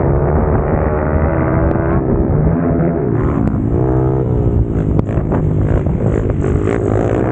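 Pit bike's single-cylinder four-stroke engine revving hard on the track, its pitch falling and climbing again with the throttle. Sharp knocks and clatter come through in the second half.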